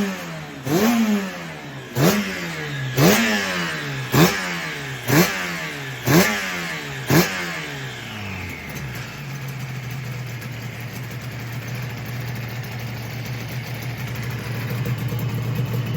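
Freshly rebuilt motorcycle engine being blipped on the throttle during break-in after a carburettor synchronisation. It gives about eight quick revs, roughly one a second, each dropping back, then settles into a steady idle about halfway through.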